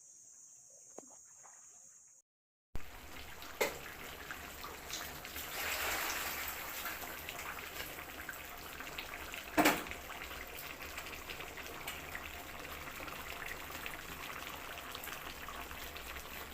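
Water running steadily, as from a tap, with scattered small clicks and two louder knocks. Before it starts there are about two seconds of faint steady insect chirring, which cuts off suddenly.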